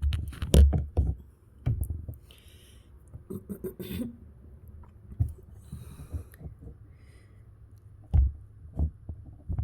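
Irregular soft knocks and clicks of hands handling thread and parts of a sewing machine close to the microphone, busiest in the first second and again twice near the end.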